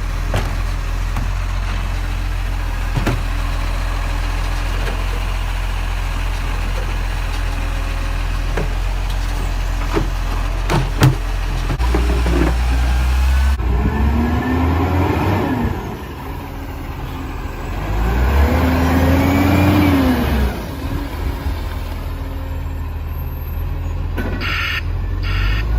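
Garbage truck diesel engine running steadily, then, in the second half, its pitch rising and falling twice as it revs. Several short hissing bursts near the end.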